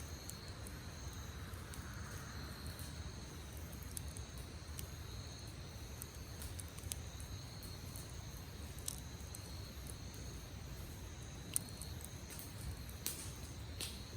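Insects chirping steadily in high, pulsing trills, with a wood campfire giving occasional sharp crackles and pops; the loudest pop comes about eleven and a half seconds in.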